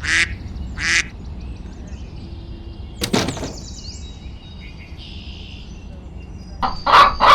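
Short, loud animal calls: two near the start, one about three seconds in, and a quick cluster near the end, with faint high bird chirps behind.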